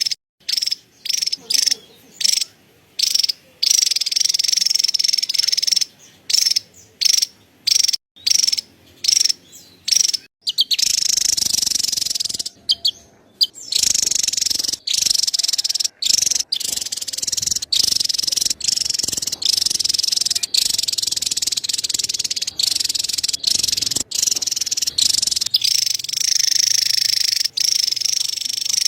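Javan tesia giving its rapid, high-pitched chattering call: short bursts broken by gaps for about the first ten seconds, then an almost unbroken chatter.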